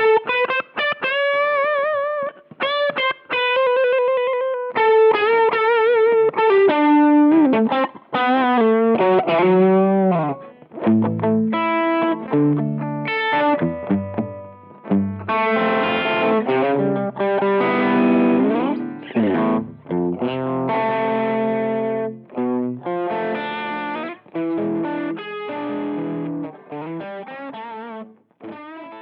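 Electric guitar played through a Bluesbreaker-style overdrive pedal, mildly driven. Single-note lead lines with vibrato and bends come first, then fuller chords and lower riffs, and the playing trails off near the end.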